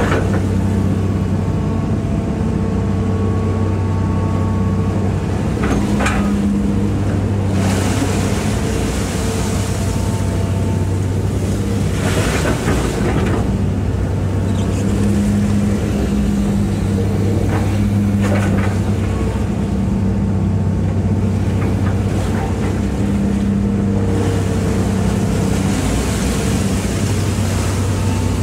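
Hitachi EX200-5 excavator's diesel engine running steadily while the machine digs, its note swelling and easing as the hydraulics take load. Several short rushes of noise break in along the way.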